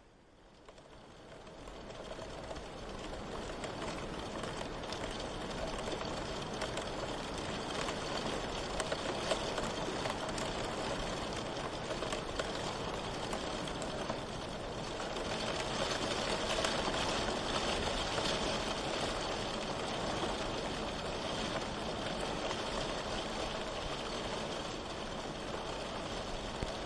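Steady rain falling in a dense patter, fading in from near quiet over the first two or three seconds, then running on evenly with a slight swell partway through.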